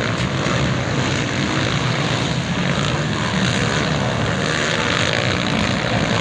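Motocross motorcycles running on the track, a steady mass of engine noise with no pauses.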